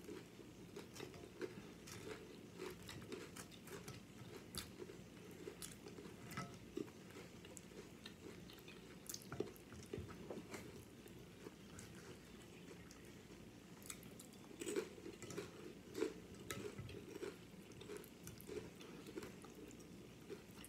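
Close-up chewing and crunching of Doritos nacho chips loaded with toppings: soft mouth sounds with scattered crisp crunches, louder and more frequent about two-thirds of the way through.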